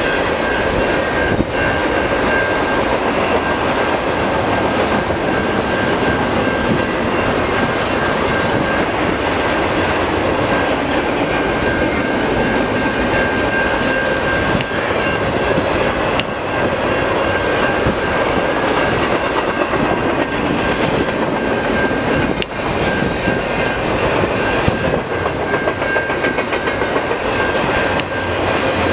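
CN double-stack intermodal container cars rolling past at speed: a steady rumble and rush of steel wheels on rail, with a steady high tone running over it and a few faint clicks.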